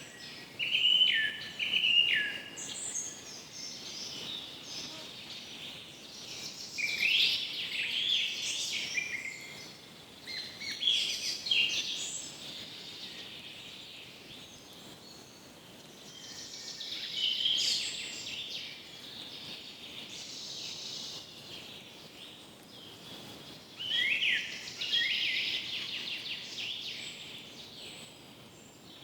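Forest birds singing: short chirping song phrases come every few seconds, over a faint steady background hiss of the forest.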